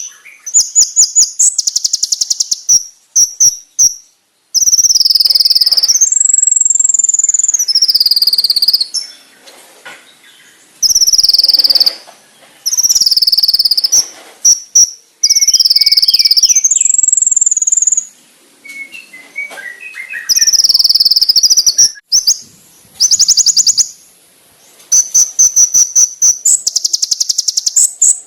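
Kolibri ninja (sunbird) song played as a training recording. Loud, high-pitched bursts of rapid trilling alternate with long whistles that waver and glide up and down. A few softer, lower twittering notes come in between.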